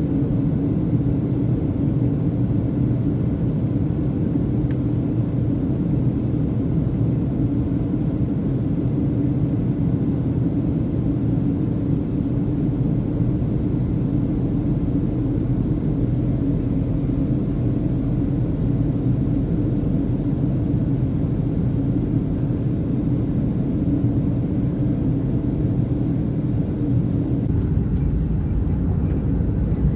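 Boeing 737-700 cabin noise: the steady, deep rumble of the CFM56 engines and airflow heard from a passenger seat, with a low hum running throughout. The lowest rumble grows a little near the end.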